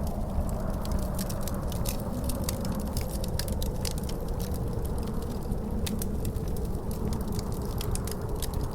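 Wood fire crackling with many quick sharp pops, over a steady low rumble of wind with a faint howl.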